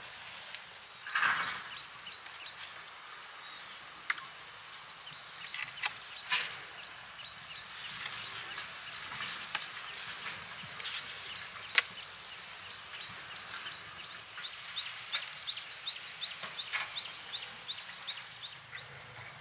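Birds calling in a garden, ending in a quick run of short rising chirps, about three a second. A few sharp snaps and clicks come through over a faint high hiss.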